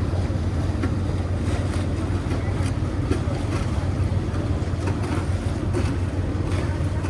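Motorboat engines running on the canal, a steady low drone under a wash of water and outdoor noise.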